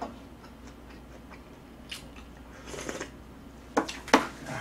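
A person chewing a mouthful of food close to the microphone, with small mouth noises, a couple of soft hisses and two sharp clicks about four seconds in.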